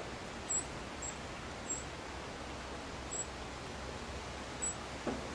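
Steady hiss of background noise with short, very high peeps at irregular intervals, roughly one a second, and a soft low sound near the end.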